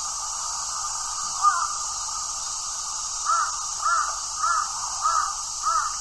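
A bird calling: a single harsh call about a second and a half in, then a run of five short, evenly spaced calls, a little under two a second, over a steady high hiss.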